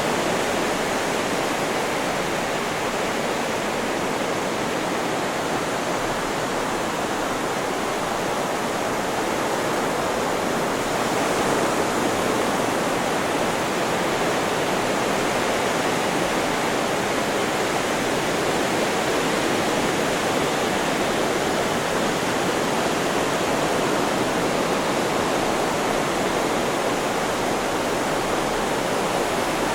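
Steady, even rushing hiss of added white noise, holding at one level with no rise and fall of breaking waves.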